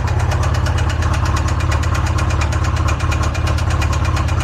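Polaris RZR engine idling warm with a rapid, steady knock: rod knock, the rod bearing having been starved of oil pressure and, the owner believes, welded to the crank.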